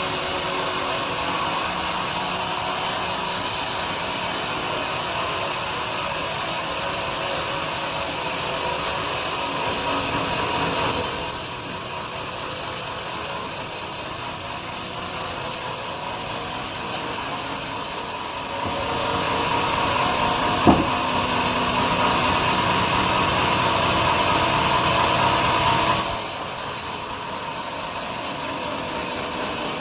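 Large sawmill bandsaw cutting lengthwise through a big log with a steady, noisy sound that shifts in character a few times. There is one sharp knock about two-thirds of the way through.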